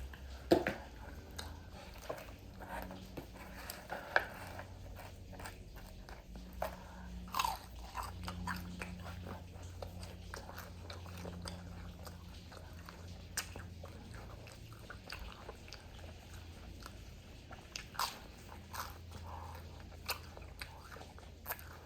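Close-up chewing and biting of crispy fried food, with irregular sharp crunches, the loudest about half a second in and around four and seven seconds in.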